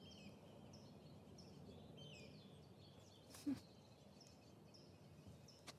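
Quiet outdoor ambience with small birds chirping faintly: short high chirps, some gliding, repeat throughout. A brief soft sound stands out about three and a half seconds in.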